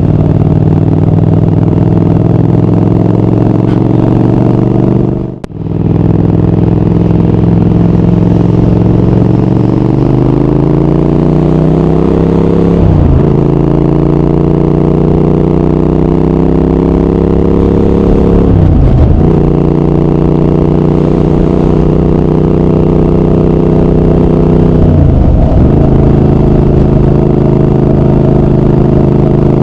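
Triumph Speed Twin 1200's parallel-twin engine and exhaust under way, pulling at a steady pitch, then rising in revs and running up through the gears with three upshifts about six seconds apart. The sound briefly cuts out about five seconds in.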